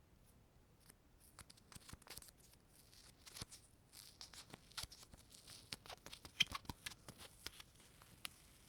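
Sticky surface being touched and peeled apart, a run of quick crackling clicks and small tearing sounds that gets busier after about three seconds.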